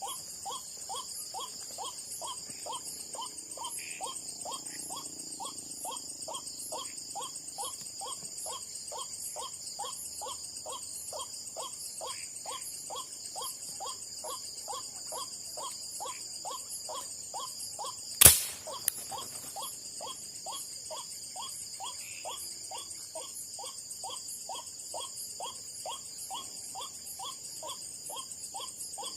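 White-breasted waterhen call played from a caller speaker, a steady run of short repeated notes about two to three a second that carries on without a break, over a constant trill of night insects. About eighteen seconds in comes one sharp, loud crack, the shot of a methylated-spirit gun firing a marble, with a faint click just after.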